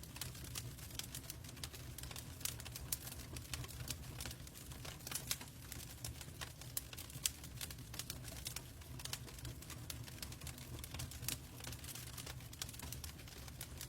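Wood fire burning in a fireplace, crackling: dense, irregular sharp snaps and pops over a low, steady rumble.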